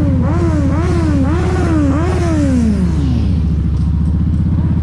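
Motorcycle engine idling steadily. Over it, a wailing tone rises and falls about twice a second, then glides down and stops about three seconds in.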